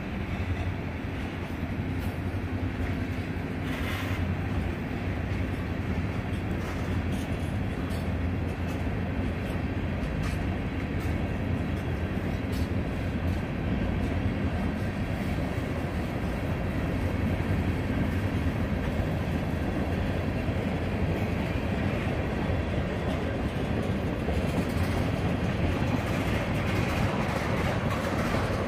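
Freight train cars (covered hoppers and tank cars) rolling past close by: a steady low rumble of steel wheels on rail, with occasional faint clicks.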